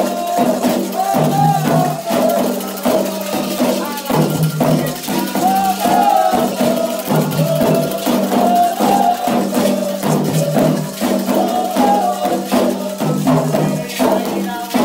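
Candomblé ritual music: a sung chant for the orixá Xangô over steady hand percussion, with shaken rattles and sharp struck strokes keeping a repeating beat.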